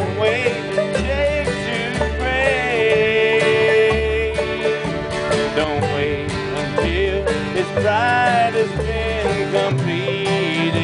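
Bluegrass-style gospel music: banjo and guitar over a steady low bass, with a wavering melody line.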